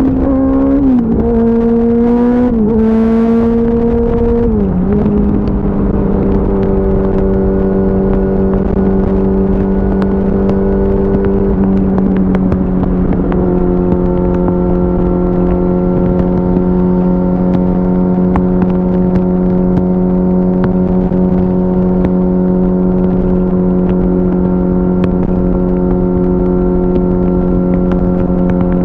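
2004 Yamaha YZF-R6 inline-four engine running at highway speed. It takes three quick upshifts in the first five seconds, each a short climb in pitch and then a sharp drop, then runs steadily at cruising revs, stepping down slightly about twelve seconds in. Wind rush runs under it.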